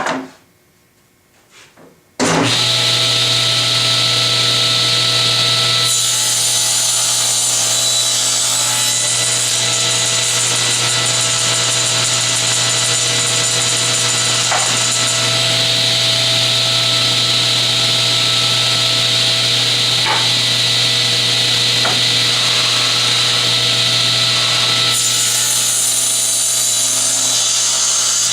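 General Model 350 table saw switching on with a sudden start about two seconds in and running steadily, its blade ripping through yellow poplar boards twice: a long cut from about six seconds in and a shorter one near the end.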